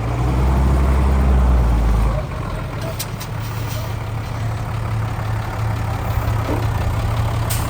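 Heavy diesel engine of earthmoving equipment running: a deeper, louder rumble for about the first two seconds, then easing to a steady lower running.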